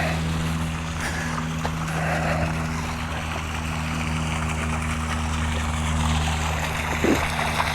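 Steady low mechanical hum of an engine or motor running at an unchanging speed.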